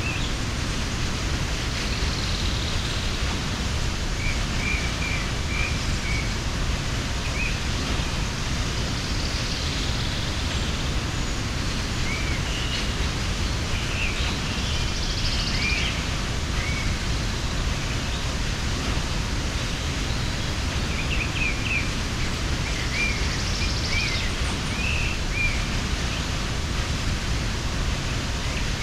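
Waterfall pouring steadily, with short bird chirps breaking through now and then, in clusters near the start, the middle and toward the end.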